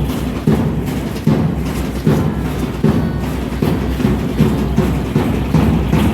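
Aztec dance drumming: a steady drum beat with a strong stroke a little under once a second and lighter strokes between.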